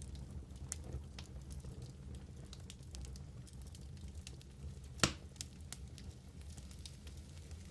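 Wood fire burning in a fireplace: a steady low rumble of the flames with scattered small crackles, and one louder pop about five seconds in.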